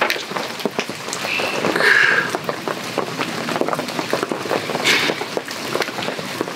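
Heavy rain pattering on a tarp overhead: a dense, even patter of drops, with a couple of short higher-pitched sounds about two seconds in and again near five seconds.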